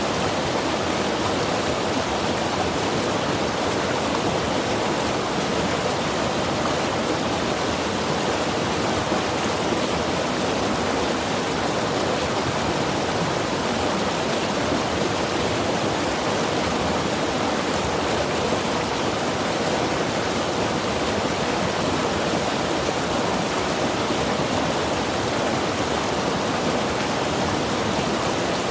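Mountain river rushing steadily over rocks, a constant even roar of moving water.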